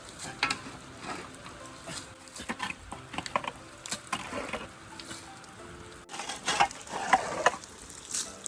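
Rain falling as a steady hiss, with irregular scraping and knocking over it, louder near the end.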